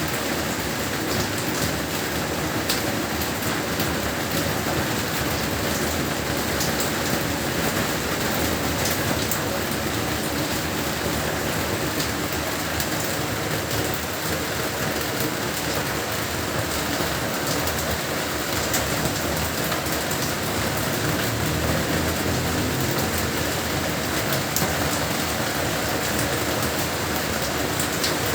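Heavy rain falling steadily: a dense, even hiss with scattered sharper ticks of drops striking a surface.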